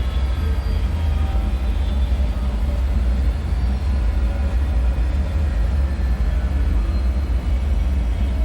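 Dark bunker ambience: a steady deep rumbling drone, with faint scattered short tones higher up.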